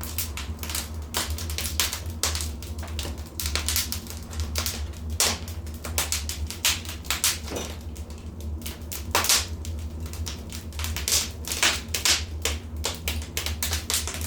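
Wood fire crackling: irregular sharp snaps and pops, several a second, some louder than others, over a steady low rumble of the burning fire.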